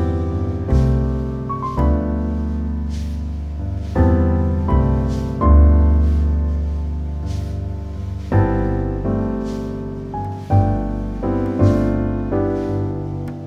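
Slow piano music: chords struck every second or two, ringing out and fading over deep bass notes.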